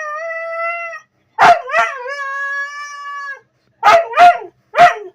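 A pet dog making howl-like 'talking' calls while trying to mimic 'love you'. A held call ends about a second in. A second call starts with a sharp yelp and is held steady for about two seconds. Three short yips follow near the end.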